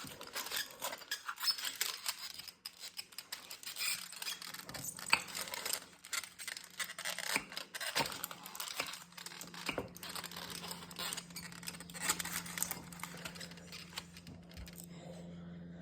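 Spoons clicking and scraping against dishes as a soft baked apple is eaten: irregular small clicks and scrapes, with a faint steady hum underneath from a few seconds in.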